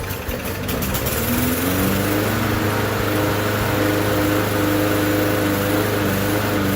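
Bolens lawn mower's small engine running, uneven for about the first second and then settling into a steady run.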